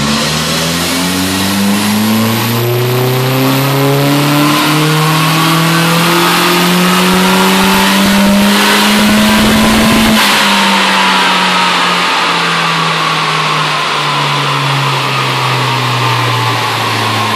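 VW Polo GTI's turbocharged 1.8-litre four-cylinder engine, Stage 2 tuned with an aftermarket exhaust, on a full-throttle dyno power run. The revs climb steadily for about ten seconds, then the throttle closes and the revs wind slowly back down.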